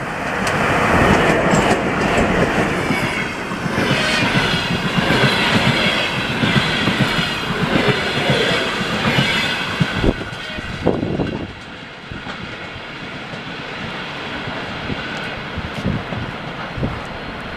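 Passenger train coaches running through at speed, wheels clattering over rail joints with a faint metallic squeal. About 11 seconds in, the train's end passes and the noise drops to a fading rumble with a few knocks.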